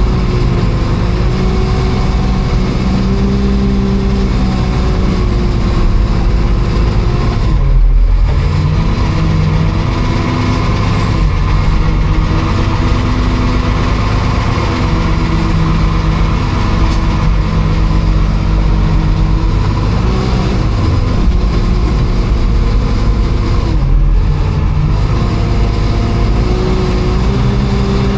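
Motor vehicle engine running steadily, as if driving, with its pitch shifting slightly every few seconds.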